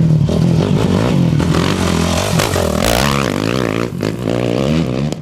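Off-road race motorcycle engine running hard, its pitch climbing and wavering about halfway through as the rider revs it.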